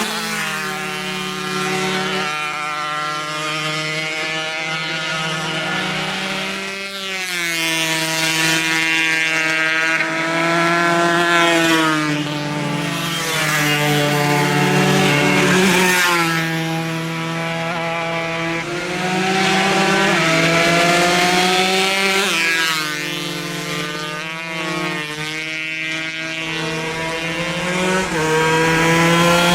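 Two-stroke 140 cc racing motorcycles at full throttle, their high engine notes climbing in pitch through the gears and dropping again, over and over, louder as bikes pass.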